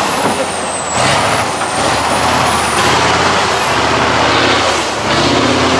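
Diesel engine of a 6x6 Tatra truck-trial truck working hard and revving over rough ground, its engine note climbing about five seconds in.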